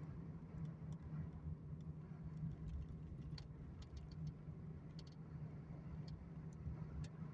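A vehicle's steady low drone, with faint scattered clicks.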